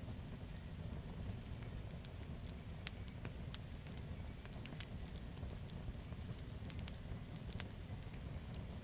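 Campfire burning, with a low steady rumble of the flames and irregular sharp crackles and pops of the wood throughout.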